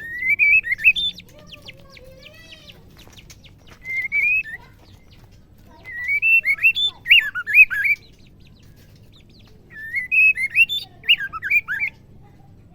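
Female white-rumped shama singing in four short bursts of quick whistled notes that swoop up and down in pitch, the last two bursts longer.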